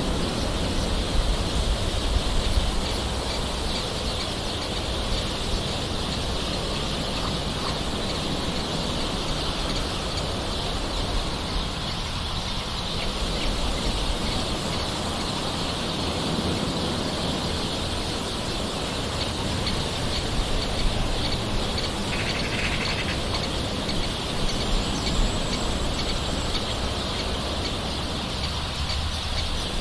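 Steady soft rain, with birds calling in the background.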